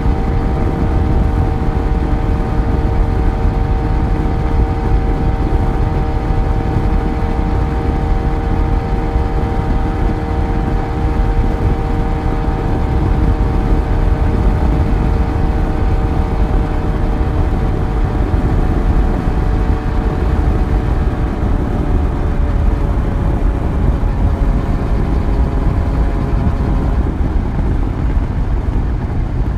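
Yamaha FZ1 inline-four motorcycle engine running at a steady cruise over a heavy low rumble, its note easing slightly lower a little past two-thirds through.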